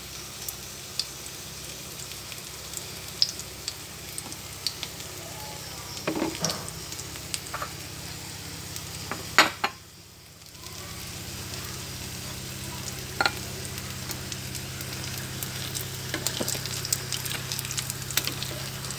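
Oil sizzling steadily around minced-shrimp patties shallow-frying in a pan, with scattered crackles and pops. A sharp knock comes about halfway through, then the sizzle briefly drops away and comes back a little louder.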